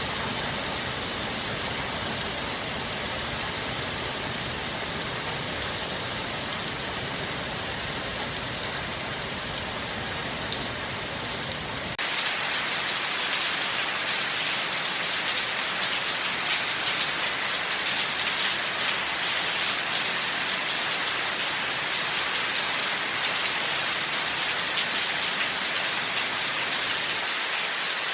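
Steady rain falling. About twelve seconds in the sound changes abruptly to a brighter, hissier and slightly louder rain with less low rumble.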